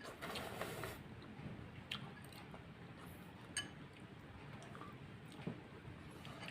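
Soft eating sounds from a bowl of boiled instant noodles: a brief slurp-like rush at the start, then quiet chewing broken by a few light clicks of a utensil against the bowl.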